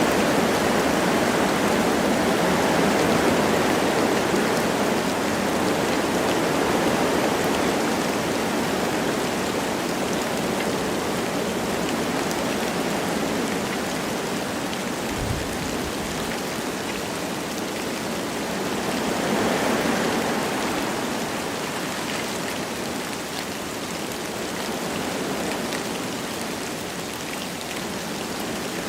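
Wind rushing through forest trees with light rain falling, a steady noise that swells in gusts near the start and again about two-thirds through, with one brief soft low thump midway.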